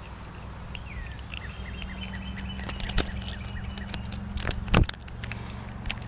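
Small birds chirping in a run of short calls over a low steady hum, with a scatter of sharp clicks and taps in the second half, the loudest just before five seconds in.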